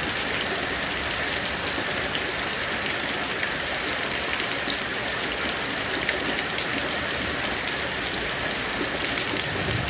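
Steady heavy rain falling, with many small drops pattering on surfaces.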